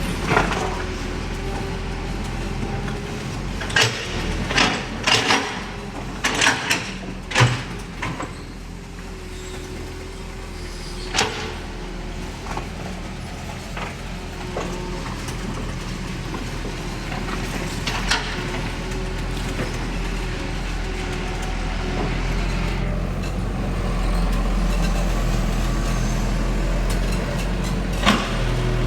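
Diesel engine of heavy earthmoving machinery running steadily. Sharp knocks come in a cluster a few seconds in and singly now and then after that.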